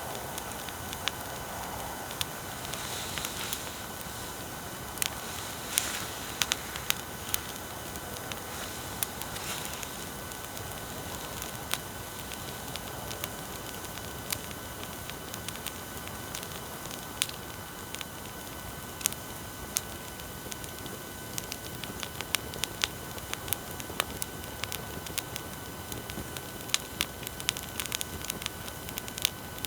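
Wood bonfire crackling, with sharp pops scattered throughout and coming more often near the end. Under it runs a steady hiss with a faint thin whine, which the uploader puts down to noise from faulty recording equipment.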